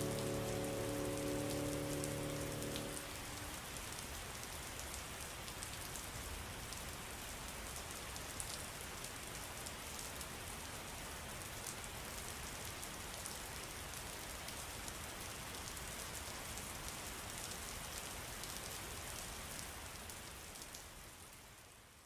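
Steady rain falling, with many small drop clicks. Soft music notes fade out in the first three seconds, and the rain fades out near the end.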